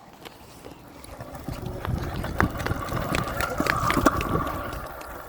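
GoTrax electric scooter riding up on wet pavement: tyre hiss and a steady motor whine grow louder about two seconds in, peak near four seconds, then fade, with scattered clicks and knocks.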